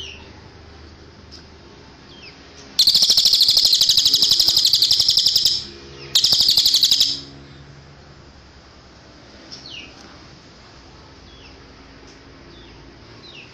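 Cililin bird singing: a loud, very rapid high-pitched trill lasting about two and a half seconds, a brief break, then a second shorter trill, with thin, short descending chirps scattered before and after.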